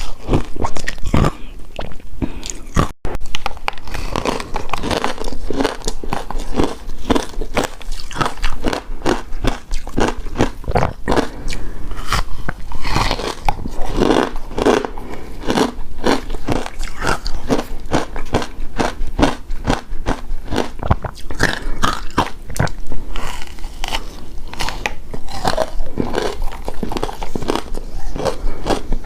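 Close-miked crunching and chewing of icy shaved-ice dessert, a dense run of irregular crunchy bites, with a very short break about three seconds in.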